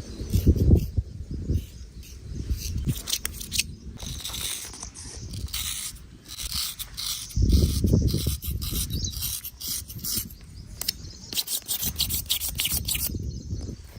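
Barber's razor scraping hair off skin in many short, repeated strokes. Low rumbling thumps come about half a second in and again around seven and a half seconds in.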